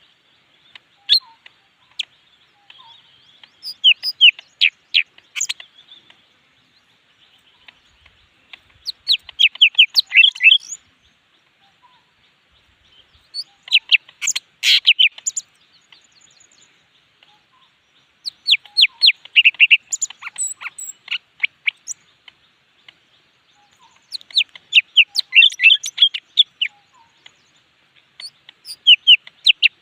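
Leafbird singing energetically in bursts of rapid, sweeping notes, about one burst every five seconds. It is a kept bird in a fired-up, aggressive singing state.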